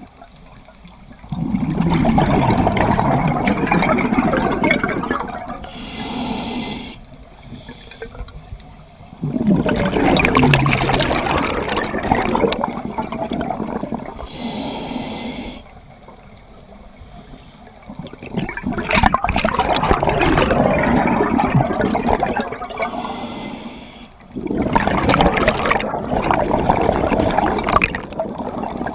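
Scuba diver breathing through a regulator underwater: four long gurgling rushes of exhaled bubbles, each about four seconds, with a short hiss of inhalation in between.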